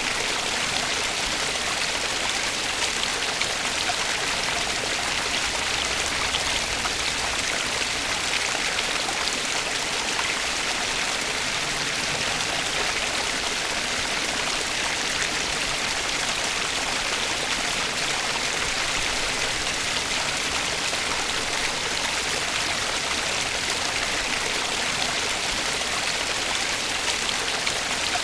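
Flowing stream water: a steady, even rush with fine splashing.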